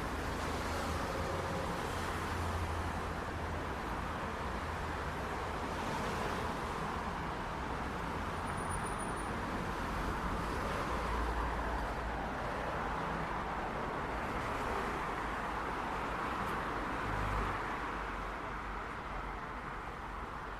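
City street traffic: a steady wash of car tyre and engine noise with low rumbles swelling and fading as vehicles pass. It eases off slightly near the end.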